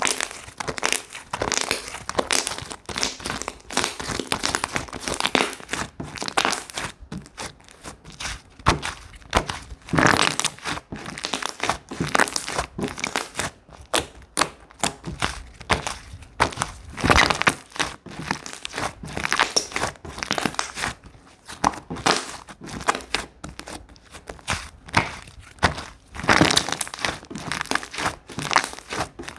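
Slime being squeezed and pressed by hand, giving dense, irregular crackling and popping clicks.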